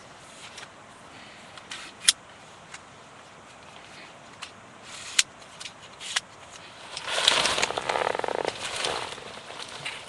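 Footsteps on a rocky mountain trail: a few scattered sharp clicks, then a couple of seconds of crunching and scraping about seven seconds in.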